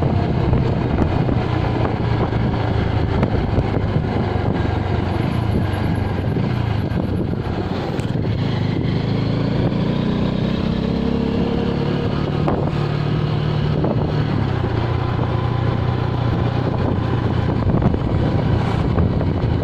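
Motorcycle engine running while riding. Its note climbs for a few seconds about halfway through, then drops back.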